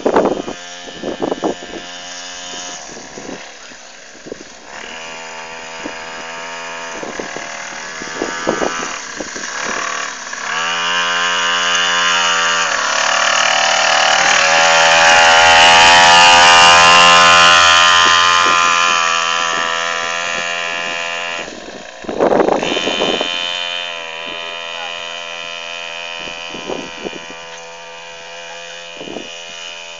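Small 49cc dirt bike engine running with a buzzing note, getting louder as it comes closer to a peak about halfway through, then fading as it moves away.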